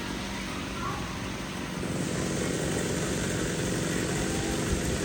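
Chainsaw engine running steadily at a constant speed.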